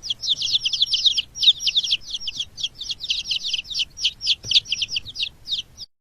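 Birds chirping: a dense run of short, high, downward-sliding chirps, several a second, that stops abruptly near the end.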